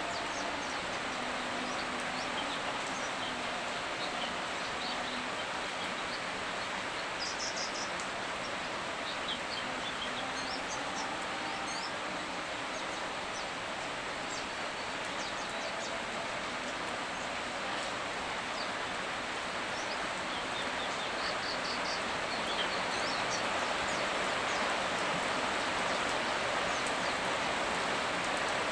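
Steady rain falling, a constant even hiss, with short high bird chirps breaking through a few times, in clusters about a quarter of the way in and again about three quarters in.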